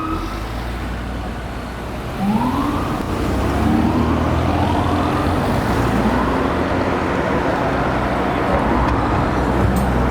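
Fire truck's electronic siren sounding repeated rising sweeps, about one a second from about two seconds in, over a heavy truck engine and traffic noise that grow louder as the siren picks up.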